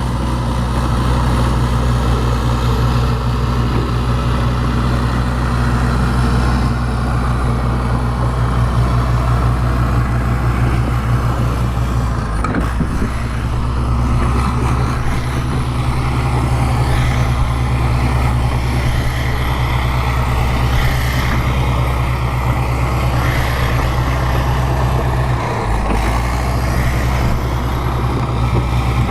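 Bulldozer's diesel engine running steadily under load, with brief changes in its note about halfway through and again near the end.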